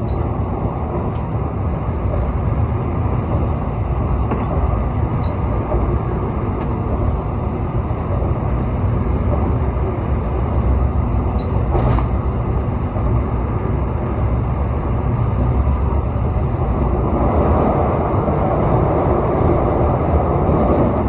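Argo Bromo Anggrek passenger train running along the track: a steady, low rumble with no horn sounding.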